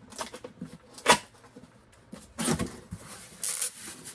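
Packing materials and small parts being handled while a box is unpacked: a sharp knock about a second in, then rustling and scraping.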